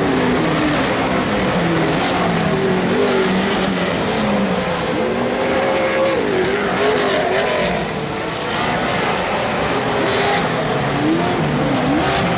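Several off-road race vehicles' engines racing on a dirt short course. The engines rev up and down over one another, with a steady haze of tyre and track noise underneath.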